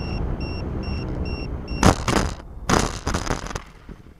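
FPV RC plane coming down onto grass, heard through its onboard camera's microphone. A steady rumble of motor and rushing air, with short high beeps about twice a second, breaks off into a loud impact about two seconds in. A second impact follows right after, then a run of sharp knocks as the plane tumbles. The noise then drops away as the motor stops.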